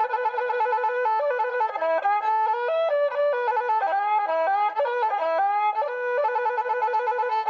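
Solo Khmer woodwind instrument playing a melody of fast trilled ornaments and short held notes.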